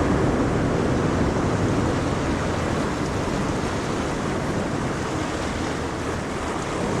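Ocean waves breaking and washing on the shore in a steady rush, easing off a little before swelling again near the end.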